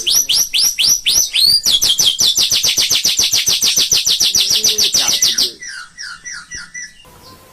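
White-rumped shama (murai batu) singing: a string of quick, downslurred whistles about four a second, breaking into a very rapid trill of around ten notes a second that lasts nearly four seconds. It then trails off into softer, lower notes, which stop shortly before the end.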